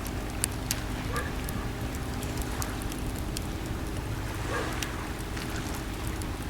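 Wood campfire crackling, with sharp scattered pops, over a steady low wash of sea waves.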